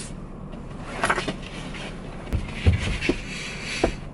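Steady hum inside a vehicle's cabin, with a handful of short clicks and knocks spread through it.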